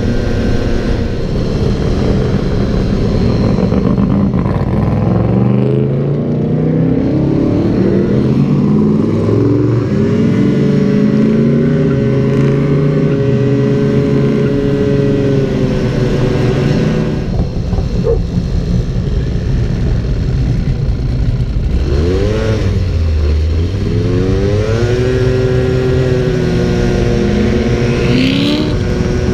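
Motor vehicle engine running and accelerating: its pitch climbs in a series of steps a few seconds in, holds steady, then drops and climbs again near the end.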